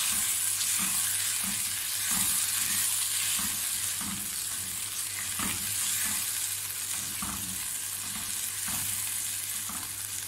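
Meat frying in yogurt and spice masala in a non-stick karahi, sizzling steadily while a spatula stirs and scrapes through it in regular strokes, a little over one a second.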